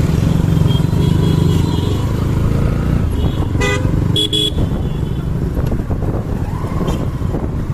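Motorcycle engine running steadily under way in traffic, with road and wind rumble, and two short horn honks about three and a half and four and a half seconds in.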